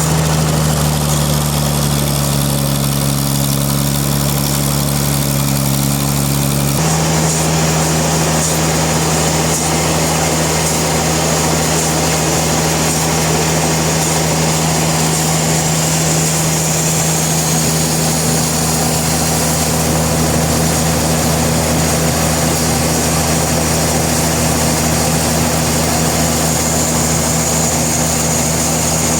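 A sawmill's engine running steadily with a low, even drone. Its tone changes abruptly about seven seconds in.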